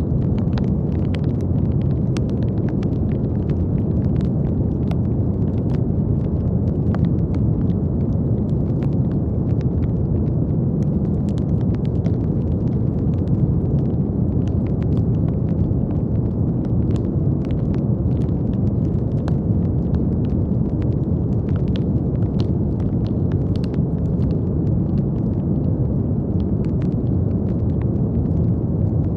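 Steady brown noise: a deep, even rumbling hiss weighted toward the bass, with faint scattered clicks above it.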